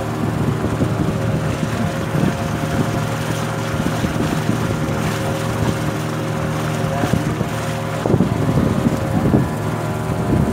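Boat engine running at a steady pitch, with wind noise on the microphone and a few irregular louder bumps near the end.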